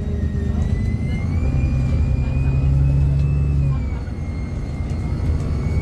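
Bus engine running under way, heard from inside the bus, with a thin whine of the engine noise fed through the onboard speaker. Engine note and whine rise about a second in, then ease off and drop back about four seconds in.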